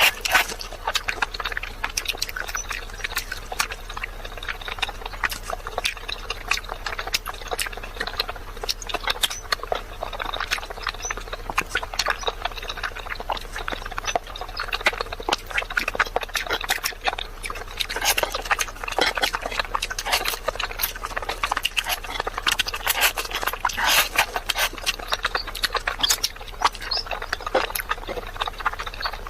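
Close-miked eating: fast, continuous wet chewing, smacking and slurping mouth sounds.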